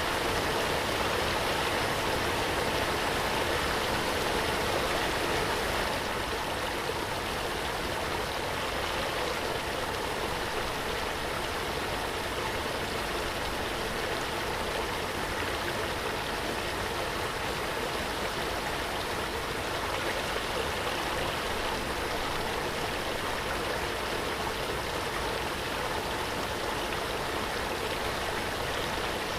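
Waterfall: water rushing and splashing in an unbroken steady roar, dipping slightly in level about six seconds in.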